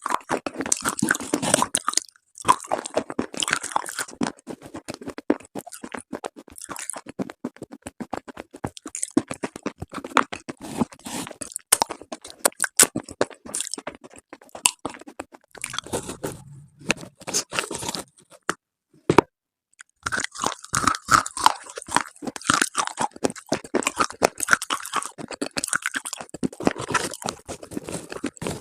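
Pieces of slate and chalk crunching in wet red and black paste: a dense, irregular run of crisp crackles, with brief pauses about two seconds in and again past the two-thirds mark.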